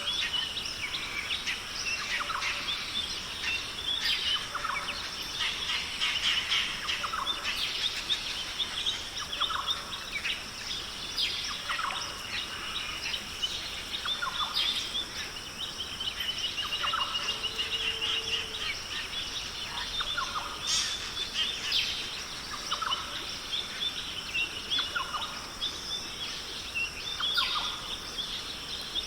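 Dense forest chorus of many birds chirping and calling over a steady high insect hum, with one short call repeating about every second.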